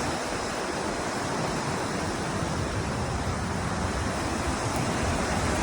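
Steady rushing noise with an irregular low rumble: wind buffeting the camera microphone while riding a bicycle.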